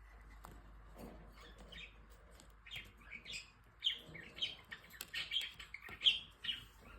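A cockatiel chirping in short, quick calls that come thicker from about three seconds in. Before that, faint scattered clicks of the bird chewing on its toy ball.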